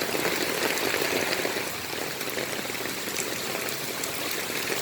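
Steady rushing of falling rain and running water, an even hiss with faint scattered ticks.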